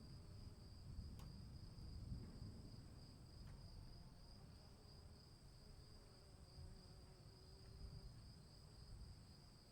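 Crickets trilling without a break at a steady high pitch, faint, over a low background rumble.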